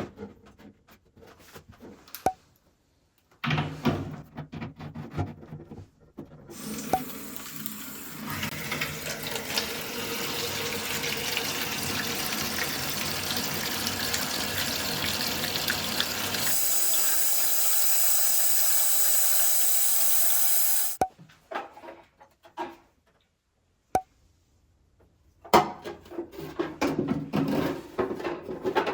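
Water running into a toilet flush tank, growing louder for about ten seconds and then turning to a higher, steadier hiss before it shuts off abruptly, as when the tank fills and its fill valve closes. Scattered clicks and knocks of handling come before and after.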